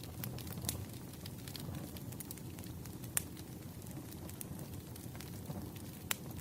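Burning firewood crackling: a steady low rush of flames with scattered sharp pops, two louder snaps about three seconds in and near the end.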